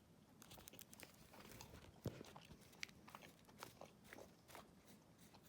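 Faint eating sounds: someone chewing soft, sticky Shingen mochi, with scattered small clicks and ticks throughout.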